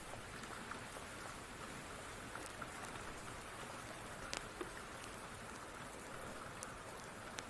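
Steady rain, mixed with the scattered sharp pops of a wood fire crackling. One pop a little past the middle is louder than the rest.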